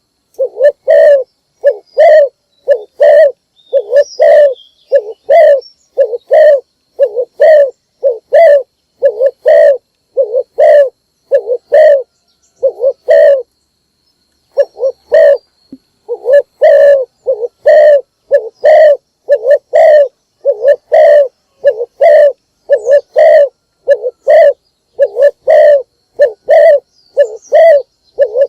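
Spotted dove (chim cu gáy) cooing loudly over and over, short coos at about two a second, with a pause of a couple of seconds about halfway through. It is a decoy call of the kind used to lure wild spotted doves.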